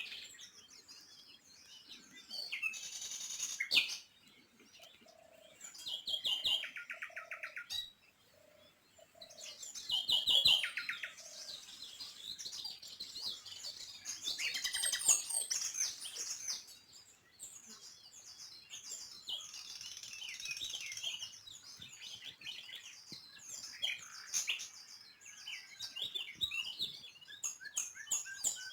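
Small birds chirping and singing, many short chirps and rapid trills overlapping, with a few lower whistled notes about a quarter of the way in.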